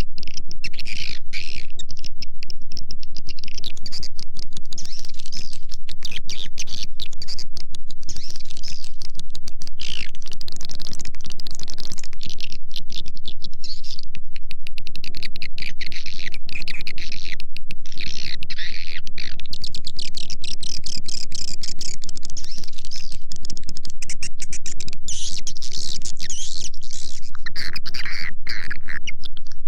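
Swiftlet (walet) call track: dense, continuous twittering chirps of a swiftlet colony mixed with many rapid clicks, over a steady low hum. It is a lure sound played to call swiftlets into a nesting house.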